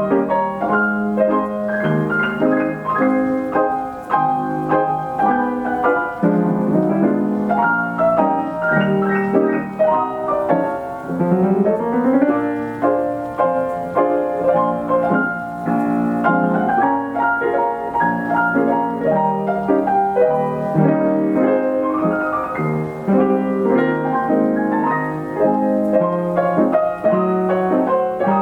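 Steinway grand piano playing itself through an Ampico B reproducing action, running a 1930s popular-song roll. Dense chords and melody, with a quick upward run about eleven seconds in.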